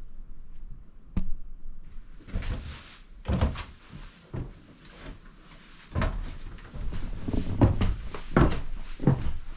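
Irregular knocks and thuds in a small room: a sharp click about a second in, then scattered thumps that come thicker in the last few seconds.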